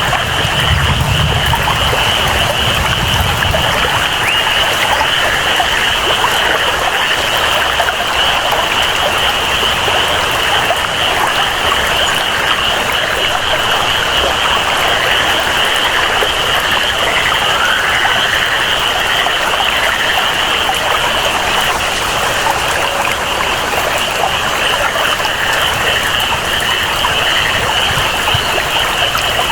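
Rainforest ambience: steady rain and flowing water under a continuous, high-pitched jungle chorus that never lets up. A low rumble sits underneath in the first few seconds.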